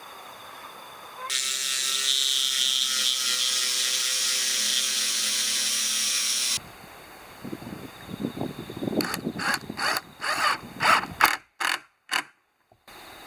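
A power tool runs steadily for about five seconds, then cuts off abruptly. A run of irregular ratcheting clicks and knocks follows, broken by brief dead gaps near the end.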